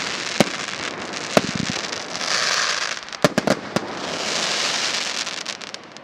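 "Tornado" consumer fireworks cake firing: a steady crackling hiss that swells twice, with sharp single bangs and a quick cluster of bangs just after the middle. It dies away near the end as the cake burns out.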